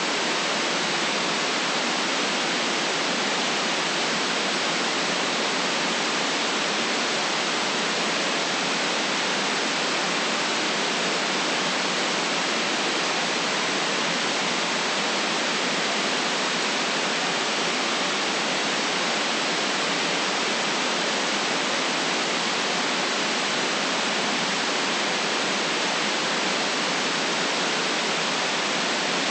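Steady artificial white noise: an even hiss with no deep rumble and no top treble, unchanging in level throughout.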